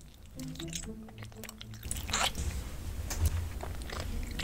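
Close-up biting and chewing of a giant sour gummy bear: irregular sticky mouth sounds that grow louder about two seconds in.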